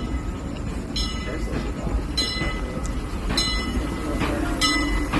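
Steam locomotive bell on the E.P. Ripley ringing in even strokes about every second and a bit, over the low rumble of the train moving along the rails.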